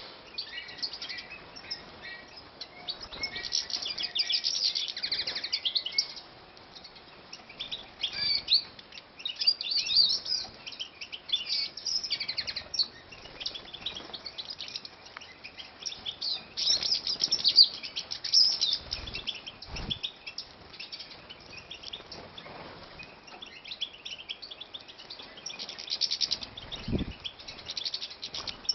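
Goldfinches twittering and chirping in repeated bouts of rapid high notes, with a couple of soft low knocks.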